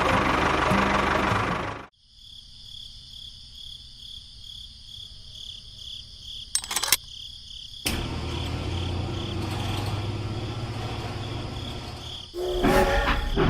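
A small motor runs loudly and cuts off abruptly. Then insects, likely crickets, chirp in a steady pulsing rhythm. About eight seconds in, a low motor hum comes back under the chirping, and near the end a louder mechanical clatter starts.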